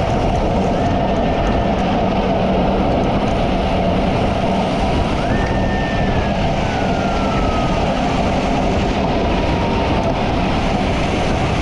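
Steady rushing of wind and heavy rain on a microphone moving at road speed, with a continuous vehicle hum underneath. About halfway through, a faint whine drops in pitch over a couple of seconds.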